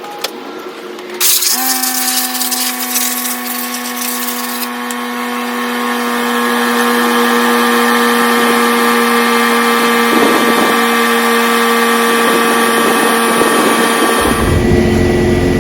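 A few seconds of loud spraying hiss from a can of WD-40 being sprayed onto an outboard motor. At about the same time a power tool motor starts and runs with a steady whine.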